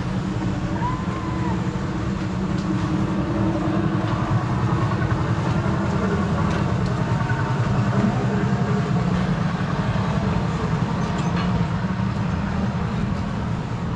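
Small engine of a vintage-style ride car running steadily with a low hum.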